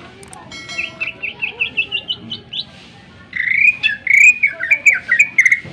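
Greater green leafbird (cucak ijo) singing. It gives a run of about eight short notes that climb in pitch, then after a brief pause a louder, quicker phrase of varied warbling notes.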